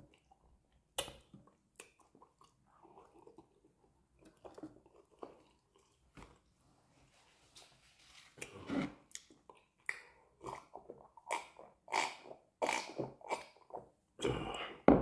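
A person chewing a mouthful of amala and fish: scattered soft mouth clicks at first, then from about eight seconds in a steady run of wet chews, two or three a second, getting louder toward the end.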